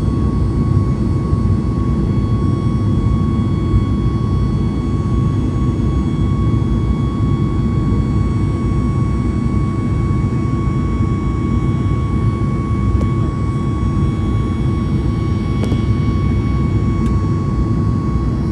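Jet airliner engines running steadily at climb power: a dense, even rumble with a thin steady whine above it.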